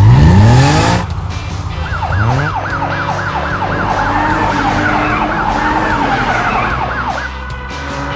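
Loud rising sweep in pitch in the first second, then an emergency-vehicle siren with a fast warble, about three to four cycles a second, for around five seconds before it stops.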